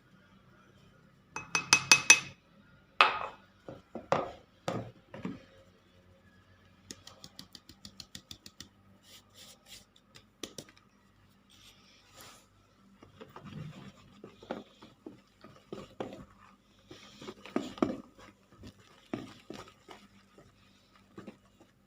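Kitchen utensils against a mixing bowl: a few ringing clinks of a glass or metal cup about two seconds in, as the second cup of flour goes into the batter, then a whisk tapping and scraping round the bowl, at one point a steady four or five strokes a second.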